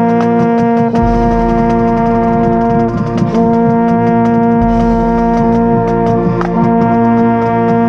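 Marching band brass holding long sustained chords, with a baritone horn close up; the chord shifts about three seconds in and again near six and a half seconds.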